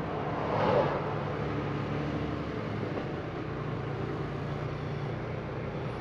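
Semi truck running down the road, heard from inside the cab: a steady engine drone with tyre and road noise. A short louder swell comes just under a second in.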